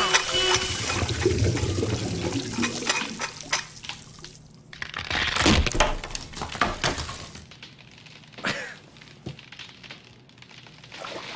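Water gushing and splashing, broken by scattered sharp knocks and clattering, one loud burst about halfway through.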